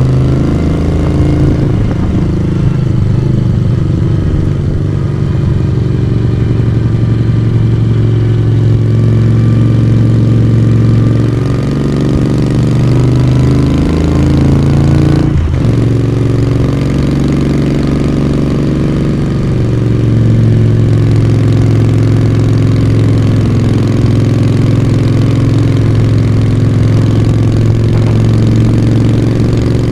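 Moto Guzzi V35's air-cooled transverse V-twin engine and exhaust running under way, its note shifting in pitch, with a brief break in the sound about halfway through, then running steadily again.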